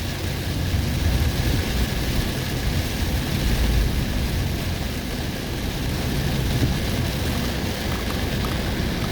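Heavy storm rain beating on a moving vehicle, over a steady low rumble of road and wind noise.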